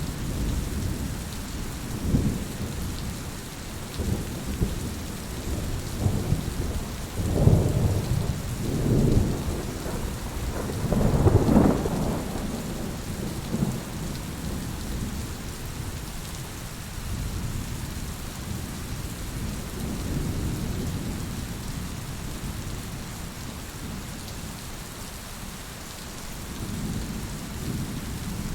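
Heavy rain falling steadily, with rolling thunder rumbling low several times; the loudest roll comes a little before the middle.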